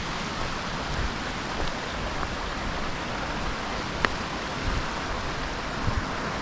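Steady rush of a flowing woodland creek, with a single sharp click about four seconds in.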